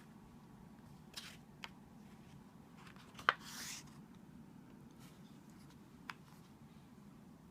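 A book's paper page being handled and turned: a few soft clicks and one brief rustle about three seconds in, over quiet room tone.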